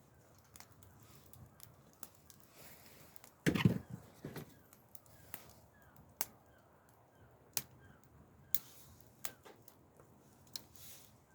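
Wood fire crackling with sharp pops every second or so, and one loud knock of wood on wood about three and a half seconds in.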